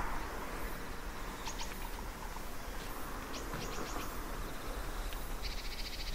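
A small bird calling: short groups of high chirps twice, then a rapid high trill near the end. Under it runs a steady outdoor rush with a low rumble.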